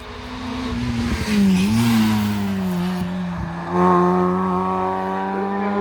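Race car engine at high revs, approaching and running past at speed. It grows louder over the first second or so, dips briefly in pitch, then holds a steady note and swells louder again near the end.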